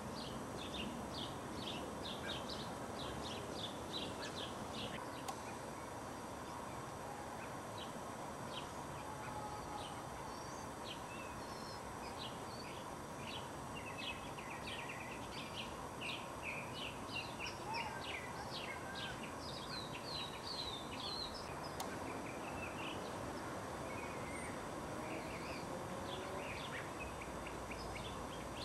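Backyard birds chirping in quick runs of short, high notes, several overlapping at times, over steady background noise.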